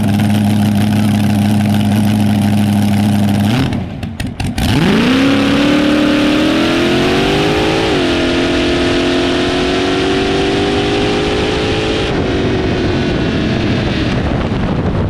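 Front-engine dragster's engine held at steady revs, then launching: its pitch climbs, drops once as it shifts into second gear, and climbs again before fading as the car goes off down the track.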